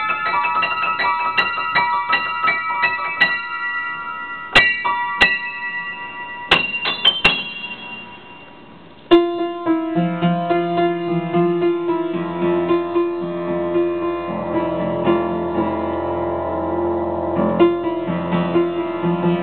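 Solo piano playing an improvised piece. Quick high notes give way to a few single high notes that ring out and fade almost to nothing. At about nine seconds a strong entry starts lower repeated notes and held chords over a bass line.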